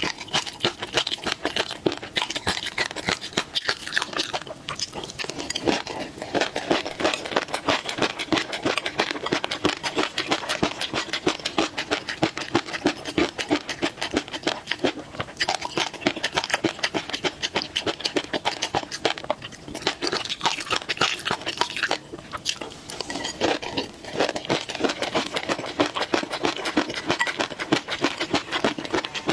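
Close-miked chewing of mouthfuls of food in peanut sauce: a dense, continuous run of rapid clicking and crackling mouth sounds.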